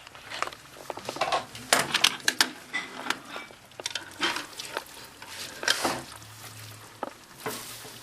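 Hoover HTC 172 washing machine on a synthetics 40 °C wash with prewash: wet laundry and water sloshing and slapping in the turning drum, with irregular knocks and clicks over a low motor hum.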